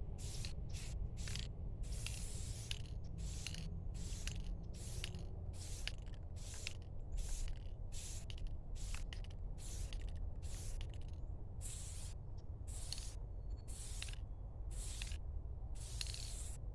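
Aerosol spray paint can sprayed in short, rapid hissing bursts, about one and a half a second, laying a paint coat onto a metal bed frame.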